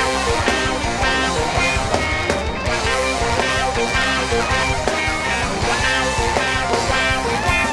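A live rock band playing, electric guitar prominent over drums and bass with a steady beat.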